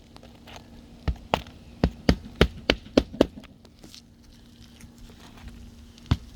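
A tool knocking sharply on a shingle roof as nails are worked loose under lifted asphalt shingles: a quick run of about eight knocks from about a second in, then two more near the end, over a faint steady hum.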